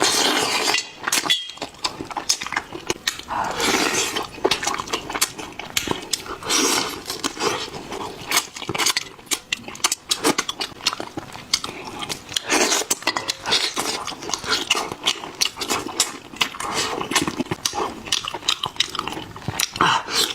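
A pet eating: a long run of quick crunching and chewing clicks with wetter smacks between them.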